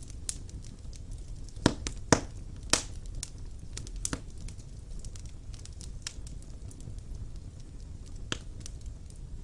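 Wood fire burning in a fireplace: a low steady rumble of flames with irregular crackles and sharp pops, the loudest three coming close together about two seconds in and another near the end.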